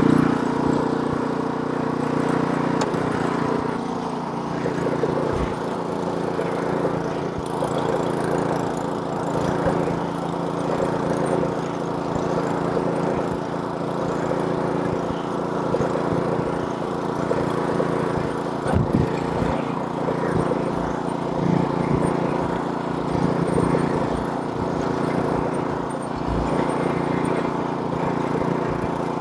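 Snowblower's small gasoline engine running steadily while clearing snow, its even engine note over a rushing noise, with small swells in loudness.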